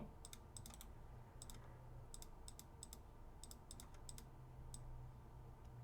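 Faint, irregular clicking of computer keys over a low hum.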